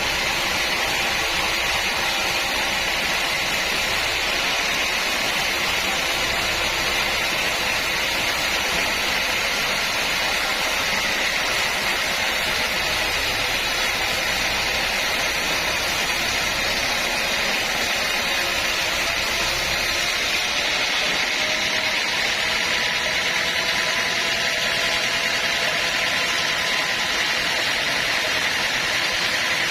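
Sawmill machinery running steadily: an even, continuous mechanical noise with no breaks. The low rumble thins a little about two-thirds of the way through.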